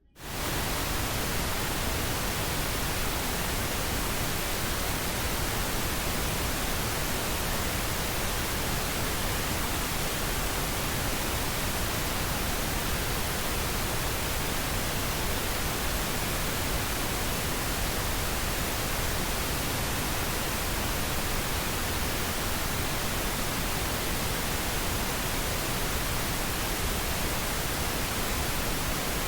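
Steady white noise, an even hiss across all pitches, coming in abruptly at the start and holding level without change.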